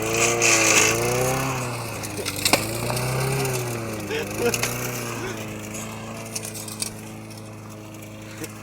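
Badly abused lawn mower's small engine running, its speed surging up and down in slow waves before settling to a steadier, quieter run. Scattered sharp knocks and clatters sound over it.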